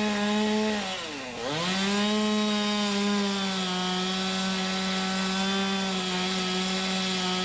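Two-stroke chainsaw running at high revs while cutting wood; about a second in the engine bogs down sharply and then revs back up, and it runs steadily after that.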